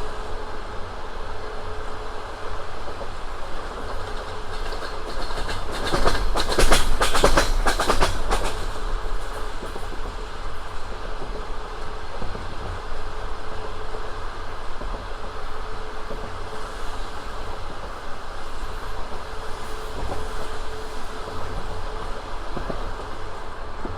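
Passenger train running along the track with a steady rumble of its wheels. About five seconds in comes a loud, rapid run of wheel clacks lasting a few seconds before the steady running resumes.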